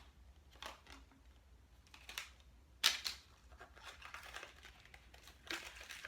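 Toy packaging being torn open and crinkled by hand: a few short rustling, tearing bursts, the loudest about three seconds in.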